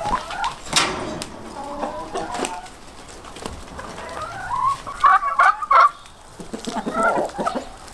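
Short pitched animal calls in quick runs, loudest in a cluster about five to six seconds in, like fowl clucking.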